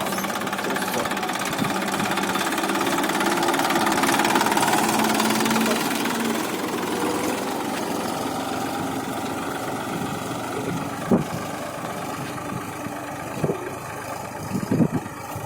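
TAFE 1035 tractor's diesel engine running steadily. It grows louder toward about four seconds in, then eases off. A brief sharp knock about eleven seconds in.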